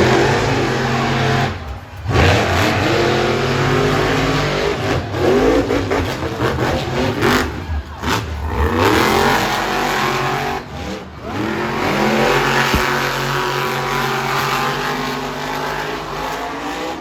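Monster truck engine revving hard, its pitch rising and falling again and again. The throttle is cut briefly a few times.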